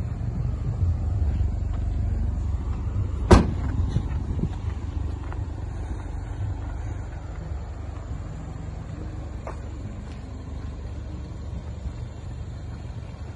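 A BMW 316i's 1.6-litre four-cylinder engine idling with a steady low rumble from the exhaust. About three seconds in, the boot lid slams shut once with a sharp thud.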